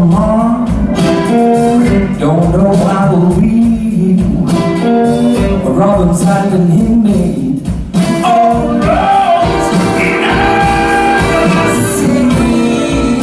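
Blues band playing live, with guitar and a male voice singing over the band.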